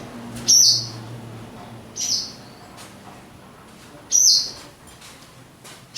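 Swallows giving short, sharp alarm calls that drop in pitch, three times about two seconds apart, typical of a pair swooping to defend their nest.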